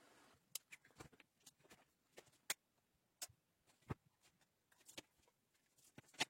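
Near silence broken by a dozen or so small, scattered clicks and taps at uneven intervals, the sound of things being handled.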